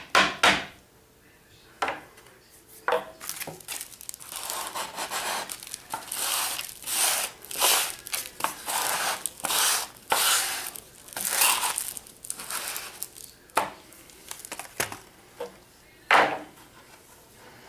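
A few sharp knocks, then irregular crinkly rustling and rubbing, with more single knocks near the end: sanding dust being tapped and shaken out of an orbital sander's dust collector.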